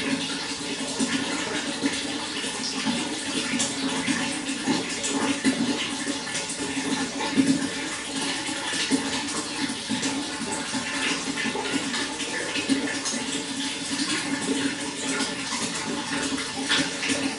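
Running water flowing steadily, with continuous splashing and gurgling.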